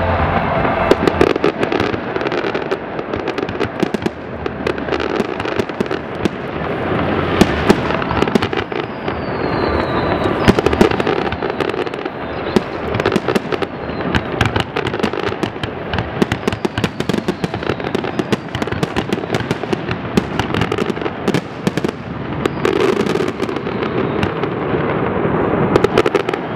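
Fireworks display: a dense, continuous barrage of bangs and crackling, with a couple of short falling whistles about ten seconds in.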